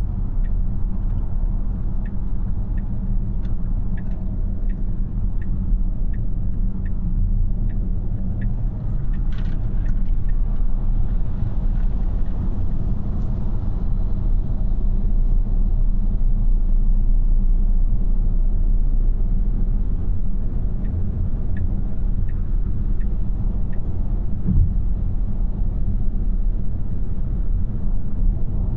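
Inside the cabin of a Tesla Model Y AWD electric car on the move: steady low rumble of tyre and road noise with no engine note. A faint regular ticking, about two a second, runs for the first nine seconds or so and returns briefly around twenty-one seconds in, and there is a single short bump near twenty-four seconds.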